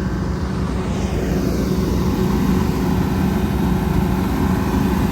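Kubota DC-105X combine harvester running steadily, its diesel engine giving a constant low drone.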